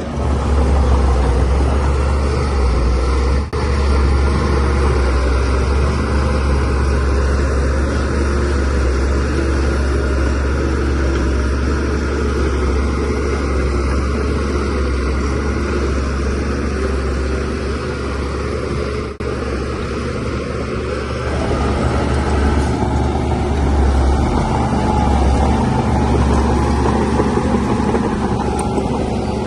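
DH17C3 crawler bulldozer's diesel engine running steadily with a deep low rumble, broken by short dips about three and a half seconds in and again about nineteen seconds in.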